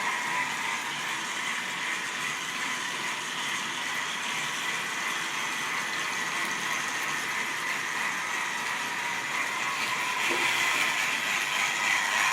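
Model railway train running along the track: a steady whir and rattle of the locomotive's motor and the wheels of the rolling stock, growing louder near the end.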